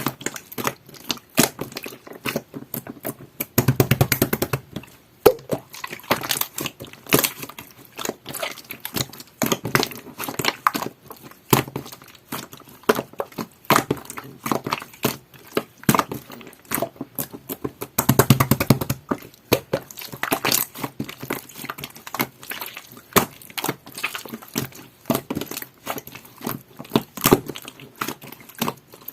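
Clear jelly-textured slime being squeezed and pressed by hand, making a string of wet clicks and pops, with two stretches of rapid crackling about four seconds in and near the middle.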